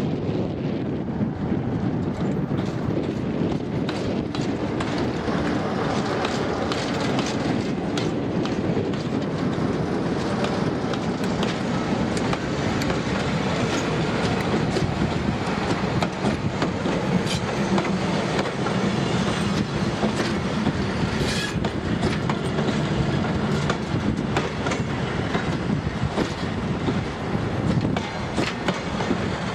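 Diesel-hauled train running past, with steady engine and running noise and the wheels clicking repeatedly over rail joints.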